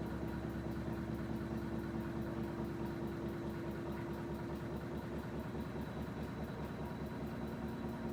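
Washing machine running: a steady motor hum with a fast, even pulsing.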